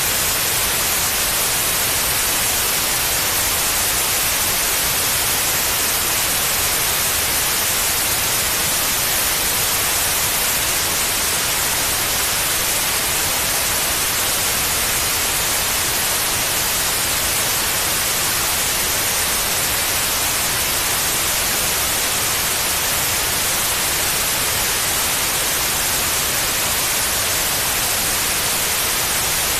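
Steady white noise: an even, unbroken hiss across all pitches, brightest in the highs.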